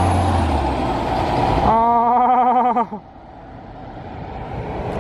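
A city bus passing close by with a loud, steady noise of engine and tyres. A wavering, pitched tone sounds for about a second, and then the noise drops off suddenly.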